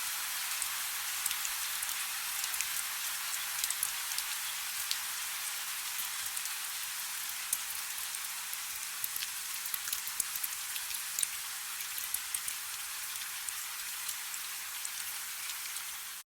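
Soft rain falling steadily: an even hiss dotted with many small raindrop ticks, which cuts off suddenly at the very end.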